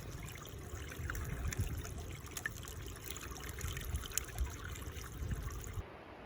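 Cold water trickling, like a small stream running, with scattered small splashes and clicks. It cuts off abruptly shortly before the end.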